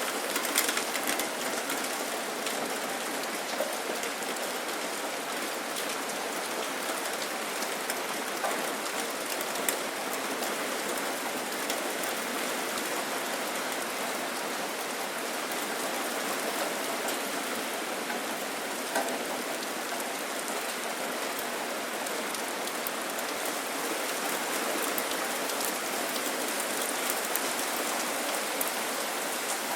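Steady rain falling, an even hiss with scattered louder drops hitting nearby surfaces.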